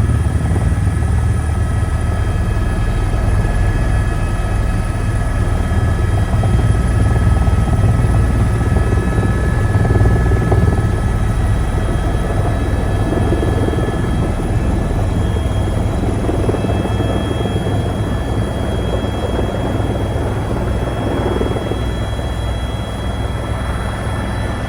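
Helicopter coming in to land: a loud, steady rotor drone with high whining tones over it. It grows slightly louder about a third of the way through and eases off toward the end.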